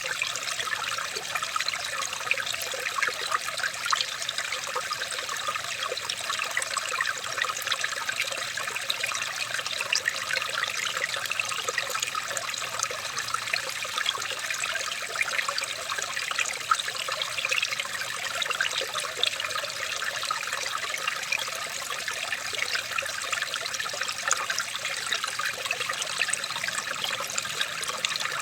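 Water trickling steadily over stones in a small stream, a continuous splashing with many tiny droplet flecks.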